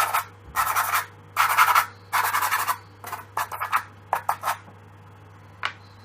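Dry pastel stick stroked across paper, laying in colour: three longer scratchy strokes, then a run of shorter quick strokes and one last stroke near the end.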